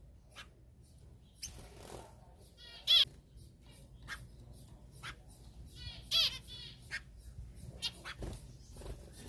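Caged exotic birds calling: two louder, short, rasping calls about three and six seconds in, with soft chips and clicks scattered between.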